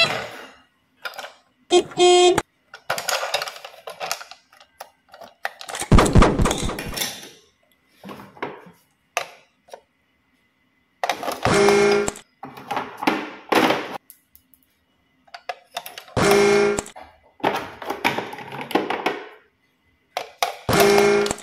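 A string of short, separate sound-effect clips with dead-silent gaps between them. One of the clips comes back three times at even spacing.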